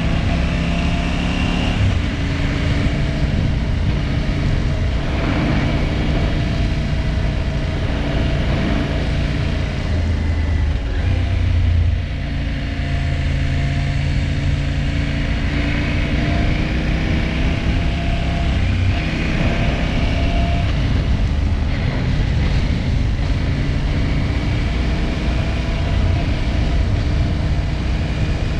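KTM 790 Adventure R's parallel-twin engine running while the bike is ridden, with wind and road noise; its pitch wanders up and down and dips briefly about twelve seconds in. The engine was hesitating and stalling, a fault the owner later traced to a failed immobilizer that may have put the bike into safe mode.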